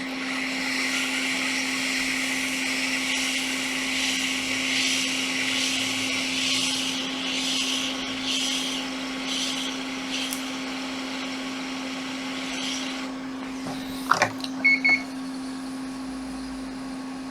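Hot air rework station blowing a steady hiss of air onto a laptop logic board, heating the part; it cuts off about thirteen seconds in. A few clicks and two short high beeps follow, over a constant low hum.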